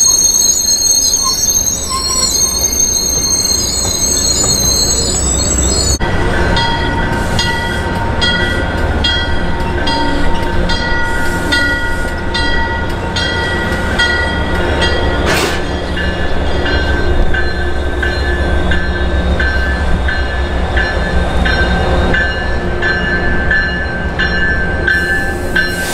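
MBTA commuter rail train passing close, its wheels squealing high and metallic. After about six seconds this gives way to a train's steady low rumble with high ringing tones that pulse at a regular beat, and a single sharp click about halfway through.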